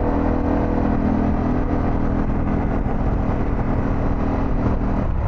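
Harley-Davidson Pan America's V-twin engine running at a steady pitch while riding, under heavy wind rush on the helmet microphone; the steady engine note drops away near the end.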